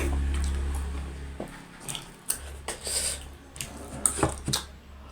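Close-up eating sounds: wet mouth smacks and chewing with scattered short clicks, over a steady low hum that drops out briefly about a second and a half in.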